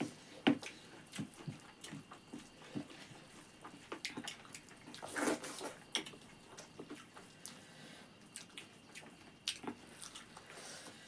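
Close eating sounds of rice with chicken curry being chewed: irregular wet mouth clicks and smacks, the sharpest about half a second in.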